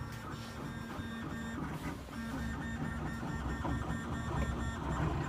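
3D printer running, its stepper motors whining in several steady tones that shift as the print head moves; the pattern of tones changes about two and a half seconds in.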